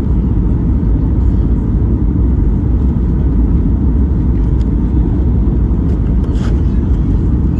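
Loud, steady low rumble heard inside the cabin of a Boeing 737 MAX 8 during landing: engine and airflow noise, with a faint tick or two.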